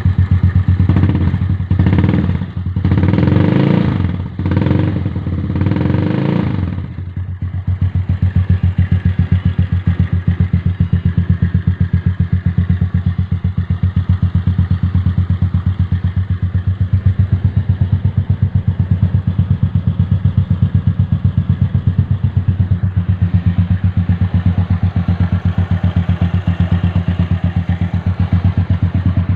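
Yamaha Nouvo scooter's single-cylinder four-stroke engine through a 'kondoman' aftermarket exhaust, blipped about five times in quick succession over the first seven seconds, then settling into a steady idle with an even exhaust pulse.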